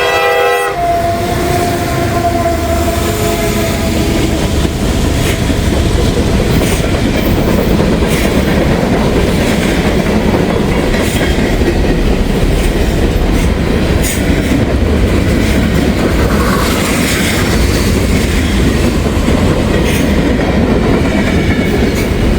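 A train passing close by on the former B&O line. Its horn cuts off under a second in, leaving a steady, loud rumble of cars rolling past with clicking and clacking wheels.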